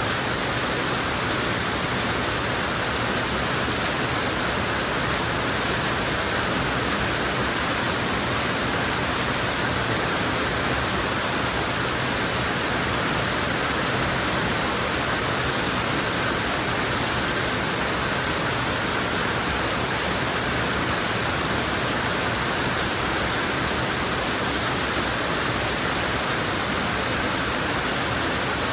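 Heavy rain falling steadily, an even hiss of downpour without breaks or distinct drops.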